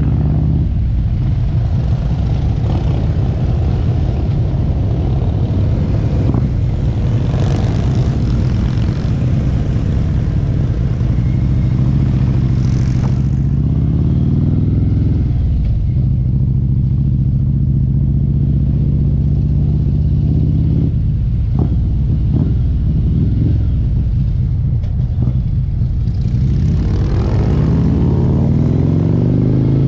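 Harley-Davidson V-twin motorcycle engine running under way. Its note drops about halfway through, then climbs in steps through the gears near the end.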